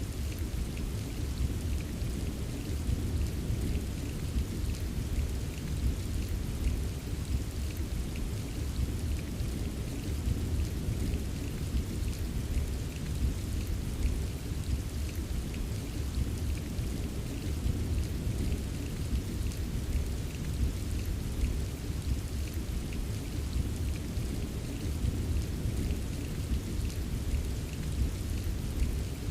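Steady rain ambience: an even hiss of rainfall with fine drop ticks over a continuous deep low rumble, with no single thunderclap standing out.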